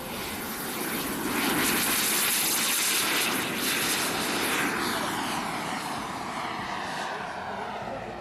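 JetCat P80SE turbine of a BVM Bandit model jet, a steady rushing jet whine that swells as the jet passes close, loudest about two to four seconds in, then fades as it moves away with a falling sweep.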